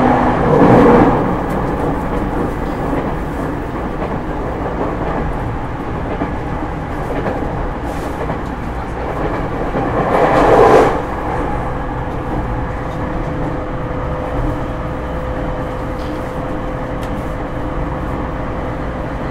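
JR East E231-1000 series electric train with Hitachi IGBT-VVVF traction, running along the track at speed with a steady rumble of wheels on rail. The noise swells briefly about a second in and again around ten seconds in. A steady hum sets in from about eleven seconds on.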